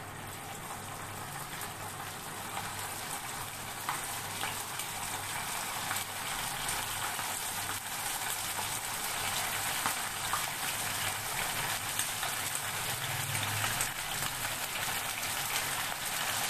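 Marinated, flour-coated chicken pieces frying in hot oil in a pan: a steady sizzle with small crackles that grows gradually louder as more pieces go into the oil.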